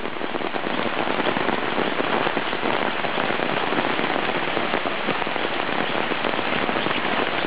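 Heavy rain falling steadily, a dense patter of drops hitting the ground and standing water.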